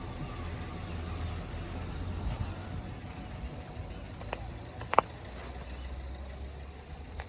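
Low, steady running of road vehicle engines, with a sharp knock about five seconds in.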